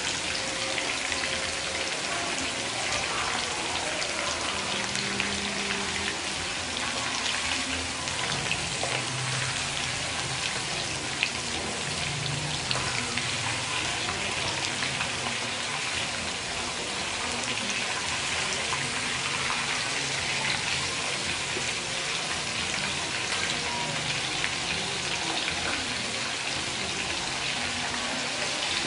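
Duck pieces and giblets frying in hot oil in a metal wok: a steady sizzle with constant fine crackling and a few sharper ticks.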